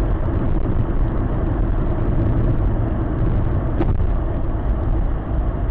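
Steady low road and engine rumble of a car driving along a highway, with a faint click about four seconds in.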